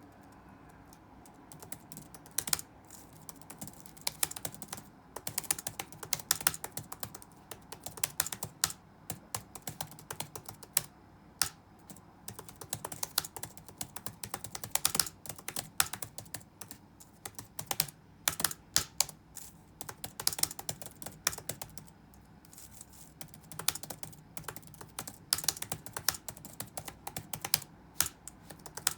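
Touch-typing on a computer keyboard: irregular runs of sharp keystroke clicks with short pauses between them, beginning about a second in, over faint steady background noise.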